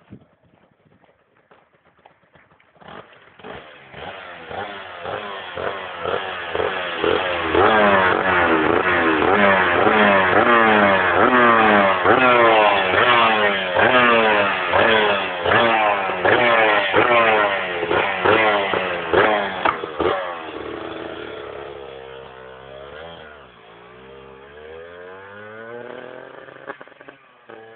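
Aprilia RS 125's two-stroke single-cylinder engine through an Arrow full exhaust system, revved over and over in quick blips starting about three seconds in. It then drops back to lower running with slower rises and falls in pitch near the end.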